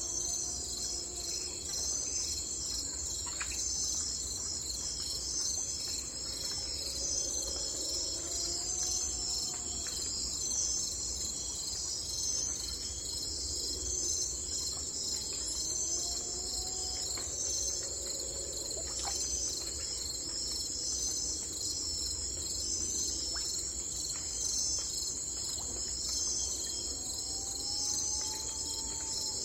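Steady, shrill chorus of crickets, with a faint low rising-and-falling call from another animal about every five or six seconds.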